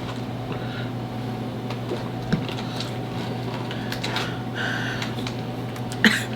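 Steady low hum with a few faint clicks, and a short hiss about four and a half seconds in.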